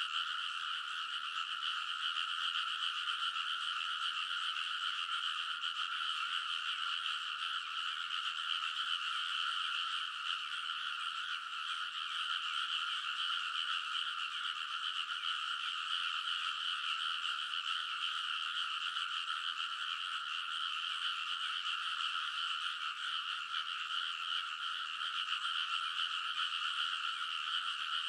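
Dense chorus of many frogs calling together, a steady unbroken din with no single voice standing out.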